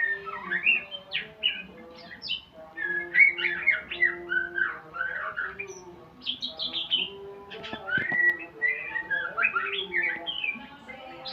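A murai songbird (Copsychus) sings a continuous run of rapid, varied whistles and chirps that glide up and down, with lower, steadier notes beneath.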